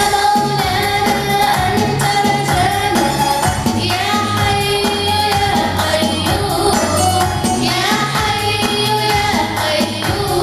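A children's nasheed: a choir of voices singing a melody over a recorded backing with bass and tambourine.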